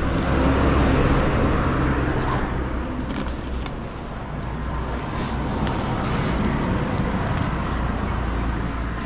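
Motor vehicle engine running steadily with road noise, louder about a second in, easing a few seconds later, then rising again.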